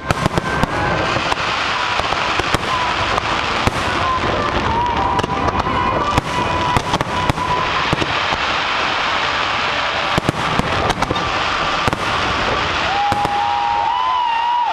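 Fireworks display: a dense, continuous crackling with frequent sharp bangs of shells bursting, and a wavering whistle-like tone near the end.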